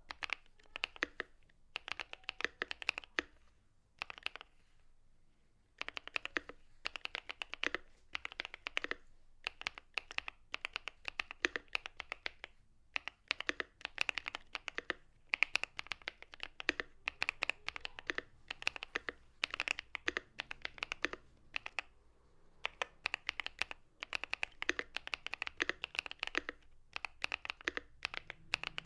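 Typing on a Monsgeek M3 aluminium TKL mechanical keyboard with pre-lubed KTT Matcha tactile switches on a PC plate and ABS doubleshot keycaps. It comes as runs of quick key clicks broken by brief pauses, the longest about four to six seconds in.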